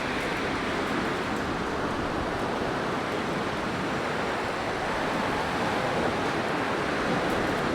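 Blizzard wind rushing steadily, a dense even noise that swells a little near the end.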